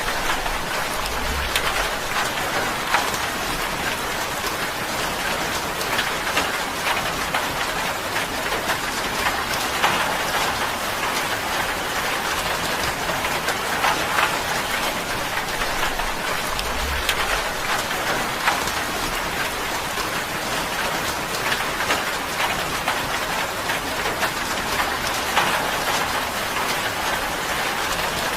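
Steady rain pattering on a tin roof: a dense, even hiss of many fine drop ticks.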